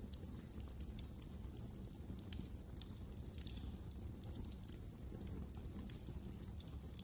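Wood fire crackling in a fireplace: many small, irregular snaps and pops over a low, steady rumble.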